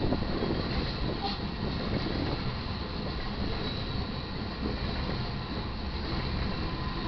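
Union Pacific grain train rolling past, its wheels giving a steady rumble on the rails with a faint thin squeal above it.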